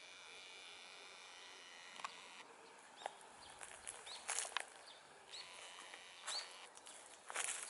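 Small birds chirping outdoors in short, sharp calls, roughly one every second. For the first couple of seconds only a faint steady high hum is heard, and it stops abruptly about two and a half seconds in.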